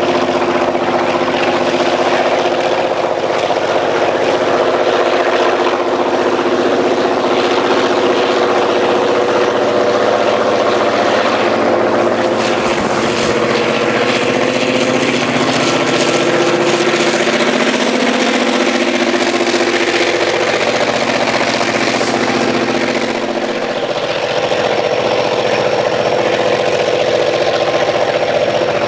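Railroad diesel engines running loud and steady under a wide wash of mechanical noise, with the engine pitch shifting and dipping briefly about two-thirds of the way through.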